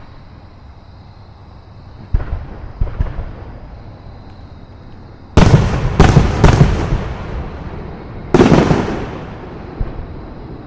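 Aerial fireworks shells bursting. There are two lighter bangs about two seconds in, then three loud booms in quick succession about halfway, and one more loud boom a couple of seconds later. Each bang trails off in a rumbling echo.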